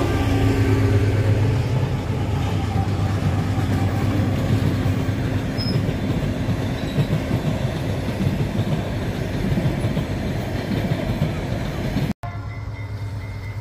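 Diesel-electric freight locomotives (GE BB36-7) running as they pass close by, their engine hum strongest in the first two seconds. Then the empty limestone hopper wagons roll by with steady wheel-on-rail noise. Near the end the sound cuts out briefly and comes back quieter and more distant.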